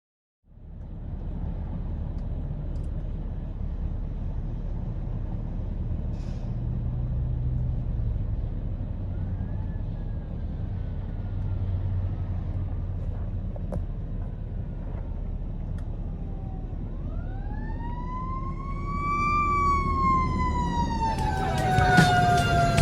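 Steady low rumble of road traffic. A fire engine's siren comes in faintly about nine seconds in, then near the end swells into a loud rising and falling wail, joined in the last second or two by a louder, harsher blare of further siren tones.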